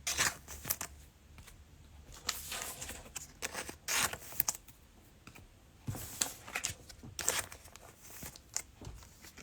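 Plastic wrapper of a trading-card pack crinkling and tearing open, in scattered short sharp crackles, with cards being handled.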